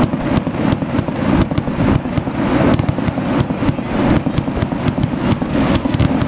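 A fireworks finale: dense rapid crackling and booming from many shells bursting in quick succession, several cracks a second over a continuous rumble.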